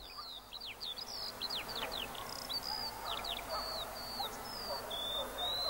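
Birdsong: many short whistled notes, most of them sliding downward, following one another quickly, over a faint background of softer calls.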